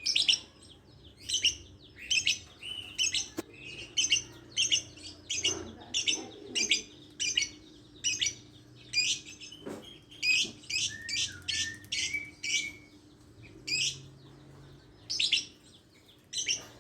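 Lovebird giving a steady series of short, shrill chirps, about one or two a second, with a brief pause late on.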